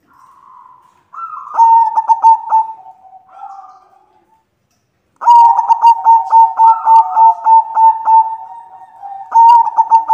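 White zebra dove (perkutut putih) cooing in bouts of quick, evenly paced staccato coos, the longest run lasting about three seconds in the middle.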